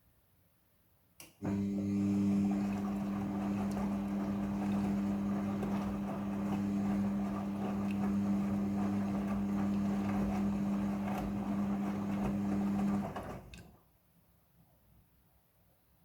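Midea front-loading washing machine: a click, then a steady electric hum with a rushing, water-like noise for about twelve seconds; the hum cuts off about thirteen seconds in and the rush fades out a moment later.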